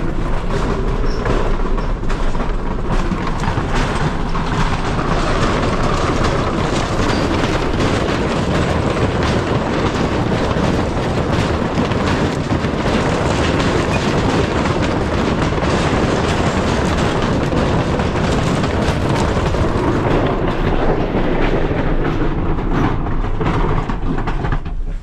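Vehicle driving over a rough, rocky track: a steady loud rumble with dense rattling and clattering throughout.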